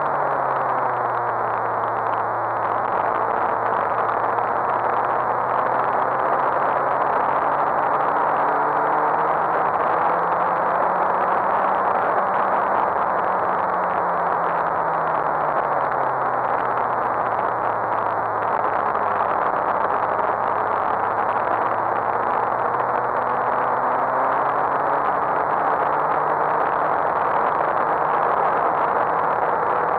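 Suzuki GSX-R1000 K7's inline-four engine running under load at track speed, buried in heavy wind rush. Its pitch drops about a second in, climbs slowly to a peak around the middle, falls again, then rises toward the end.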